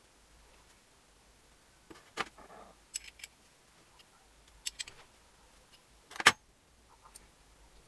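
Metal tools and small metal parts clinking and knocking against each other in a handful of separate strikes, the loudest about six seconds in.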